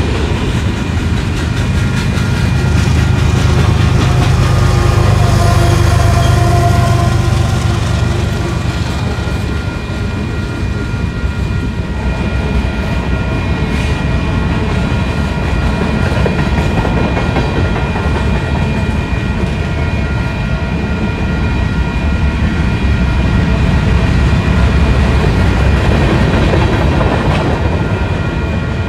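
Freight cars rolling past close by: a continuous rumble and clatter of steel wheels on rail, with a few thin steady high tones over it. It is loudest in the first several seconds, eases off around the middle, then swells again near the end.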